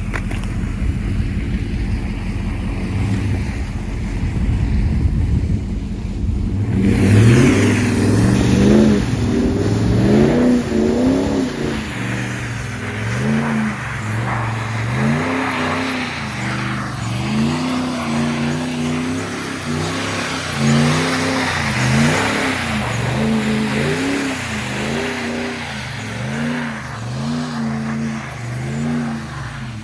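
Ram 1500's 5.7 Hemi V8 running low and steady, then from about seven seconds in revving up and dropping back over and over, roughly once a second, as the truck is drifted on ice.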